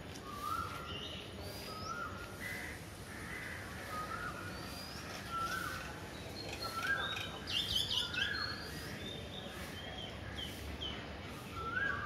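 Birds calling: a short rising call repeated about once a second, with higher chirps mixed in and a quick run of chirps a little past the middle, over a low steady background hum.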